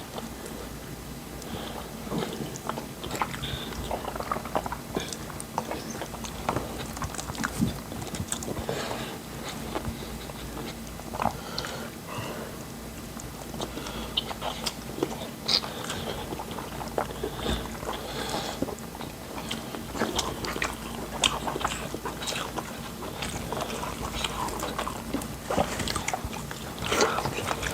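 Close-miked eating sounds of fufu and pepper soup: many small irregular clicks of chewing and mouth noises, over a low steady hum.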